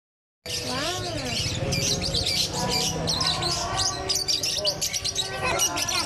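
Caged songbirds chirping and twittering, many short high calls overlapping without a break, starting about half a second in.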